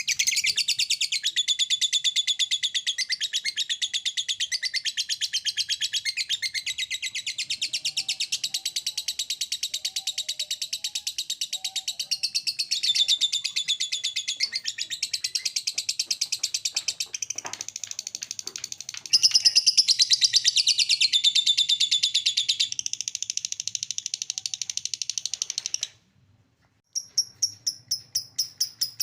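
Lovebird ngekek song: a long, unbroken run of rapid, shrill chattering notes. It cuts off suddenly about 26 seconds in, and a few short bursts of chatter follow near the end.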